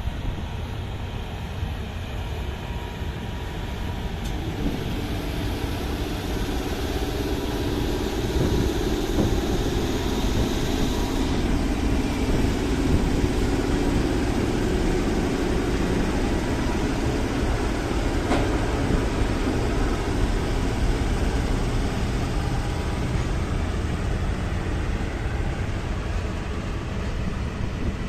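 A train passing on the track: a steady rumble of wheels and rolling stock that builds over the first few seconds and holds, with a high hiss that stops about a third of the way in.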